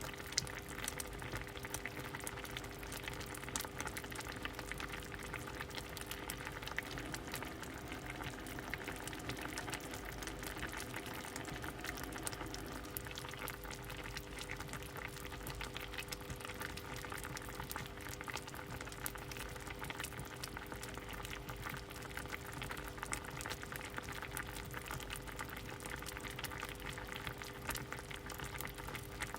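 Pot of soup boiling steadily, a constant bubbling hiss full of small pops, with a faint steady hum underneath.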